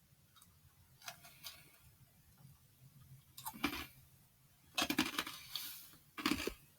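A few faint, scattered knocks and rustles, with a longer rustle about five seconds in.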